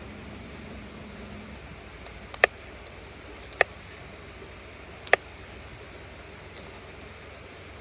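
Three sharp clicks or knocks about a second and a half apart, over a steady background hiss, with a few fainter ticks between and after them.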